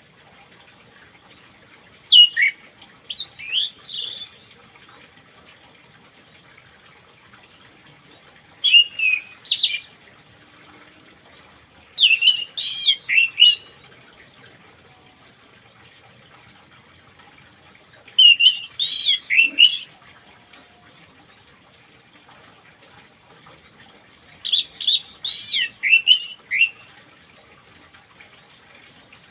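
Orange-headed thrush singing: five short phrases of quick, swooping whistled notes, each lasting a second or two, with pauses of several seconds between them.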